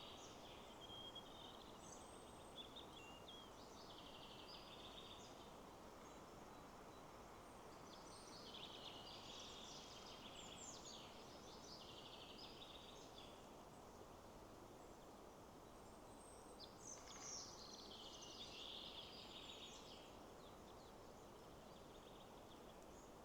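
Songbirds singing in three bouts of quick chirping phrases over a faint, steady rush of wind in the trees.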